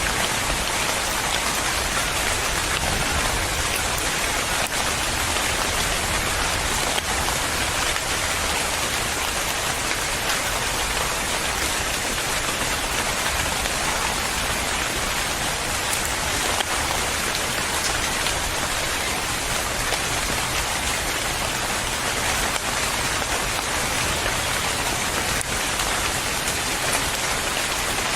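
Steady rain falling on a surface, a dense even patter with a few louder individual drops.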